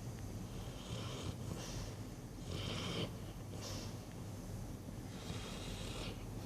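A sleeping Dogue de Bordeaux (French mastiff) snoring: irregular noisy breaths through the nose and throat, one every second or so, with the strongest around the middle and near the end.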